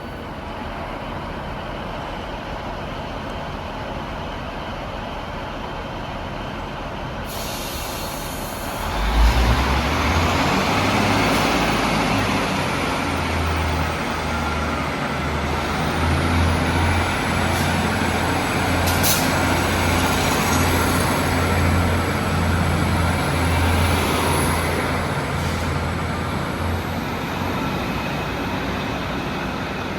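A train running along the station platform. About nine seconds in, a sudden rumble builds into a loud, pulsing engine drone with a rising high-pitched whine. A sharp clank comes about halfway through.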